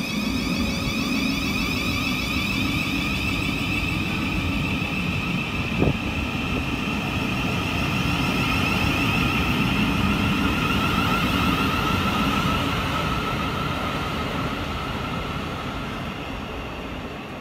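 Electric multiple-unit passenger train pulling out of the platform: the traction motors' whine rises slowly in pitch over the rumble of the wheels on the rails, with a single clunk about six seconds in. The sound fades over the last few seconds as the train draws away.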